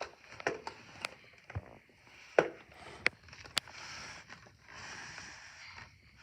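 Xplear Taurus T8 electric fan blowing with a soft hiss of moving air that swells twice in the second half, over scattered sharp clicks and knocks.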